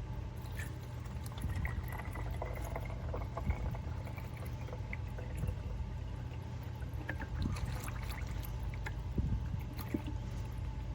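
Liquid pouring and trickling over a steady low hum, with scattered light clicks.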